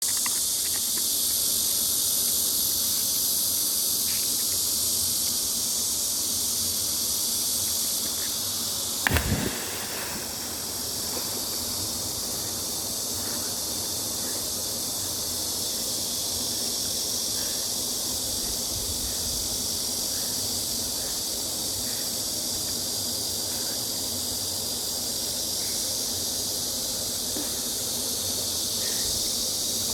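Steady high-pitched chorus of insects buzzing, with one loud impact about nine seconds in.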